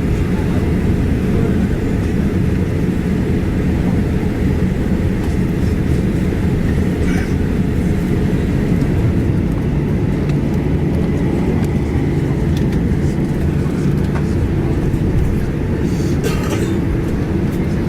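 Steady low rumble inside the cabin of a Boeing 737-800 taxiing after landing: its CFM56 engines at idle, with a couple of faint clicks, one about seven seconds in and one near the end.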